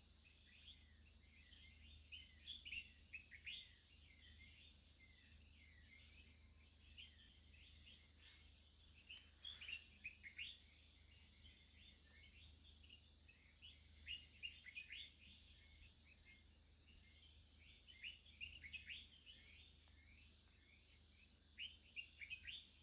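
A faint morning chorus of many small birds chirping in short, quick notes over a steady, high-pitched, pulsing trill of insects.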